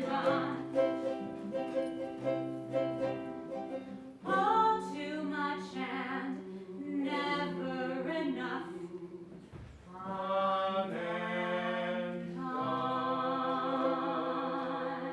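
Several voices singing together in harmony, holding long sustained notes that move through a few changes of chord, with a last chord held over the final few seconds.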